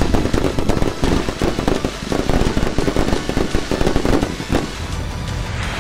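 Fireworks crackling and popping in a dense, rapid run of bursts. Near the end this gives way to a steady hiss.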